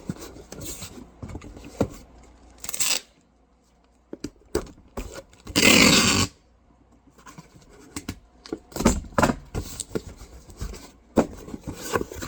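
Cardboard shipping box being handled and readied by hand: scattered scrapes, rustles and light knocks, with one louder rasping scrape lasting under a second about halfway through.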